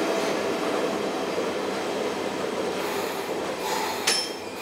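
Running noise inside an Ohmi Railway electric car (MoHa 224), a steady rumble that grows gradually quieter as the train slows. A single sharp metallic click rings out about four seconds in.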